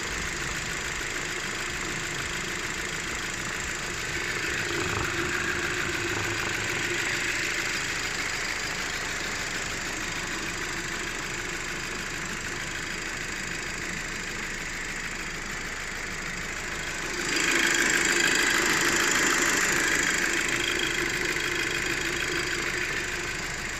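Audi 2.0 TFSI turbocharged four-cylinder engine idling after a cold start. It twice grows louder for a few seconds, most strongly about seventeen seconds in, then settles back to its steady idle.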